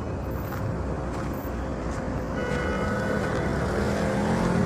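Road traffic: a steady rumble of passing vehicles, with a motor vehicle's engine note coming in about halfway through and growing a little louder toward the end.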